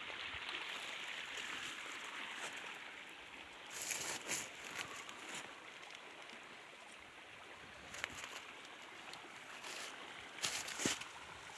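Steady rush of river water, with a few short crackles around four seconds in, at eight seconds and near the end.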